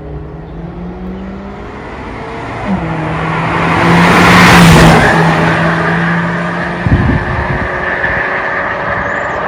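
VW Tiguan 330TSI's EA888 turbocharged four-cylinder running through an MS-R valved cat-back exhaust as the car passes by at a steady engine speed, loudest about halfway through. A short sharp burst from the exhaust comes about seven seconds in.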